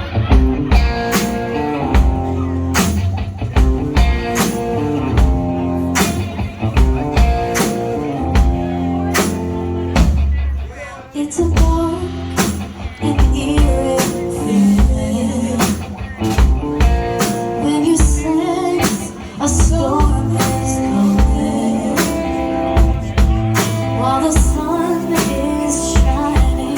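Live band playing a song's instrumental opening: a drum kit keeps a steady beat under bass and guitar chords, with a brief drop-out about ten seconds in.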